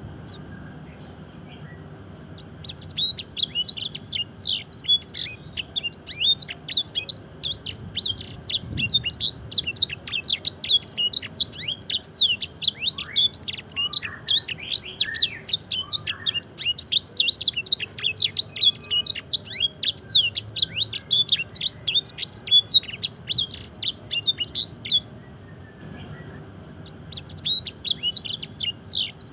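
Domestic canary singing a long, rapid song of high chirps and trills mixed with blackthroat-style phrases. The song starts a couple of seconds in, breaks off for a moment near the end, then resumes.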